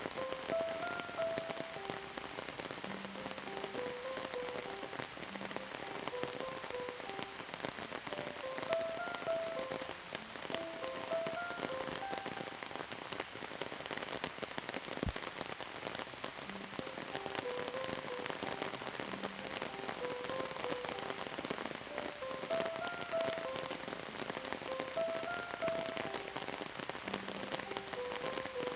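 Steady rain falling, a dense patter of drops hitting a surface, with a quiet melody of short notes playing underneath.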